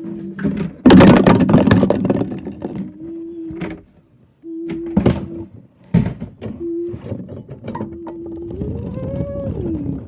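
Recycling truck tipping a bin into its hopper: a steady whine that keeps stopping and starting, a loud clattering burst about a second in, a couple of sharp knocks, and near the end a whine that rises and then falls.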